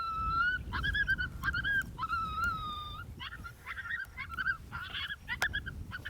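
Canine howls and yips: several drawn-out, wavering high howls over the first three seconds, then a quick run of short yips.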